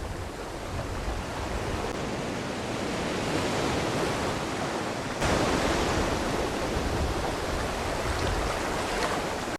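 Rushing river water, a steady roar that sounds like a small waterfall. It grows gradually louder and jumps up in level about five seconds in.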